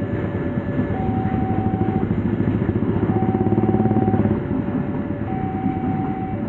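Empty flat freight wagons rolling past with a heavy rumble and clatter of wheels on rails. Over it a level-crossing warning alarm sounds, alternating between a lower and a higher note about once a second.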